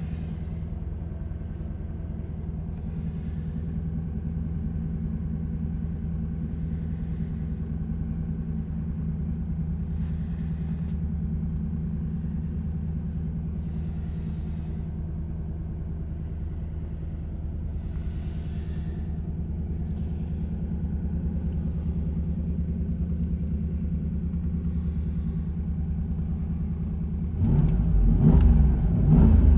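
1995 Lexus LS 400's 4.0-litre V8 idling steadily. Near the end it is revved and the sound gets suddenly louder.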